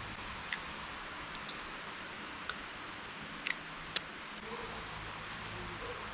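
A few short, sharp clicks, two close together about three and a half seconds in, over a steady outdoor hiss.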